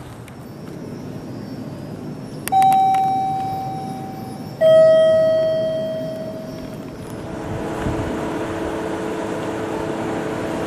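A two-note descending chime, a higher ding and then a lower dong, each note ringing out and fading over about two seconds. About seven seconds in, a steady drone with a few held tones sets in.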